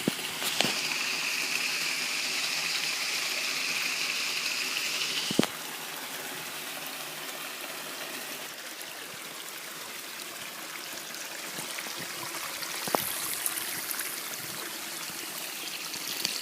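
Running water of a mountain stream, a steady rushing. A steady high-pitched hum sits over it for the first five seconds and stops abruptly, and there are a few faint clicks.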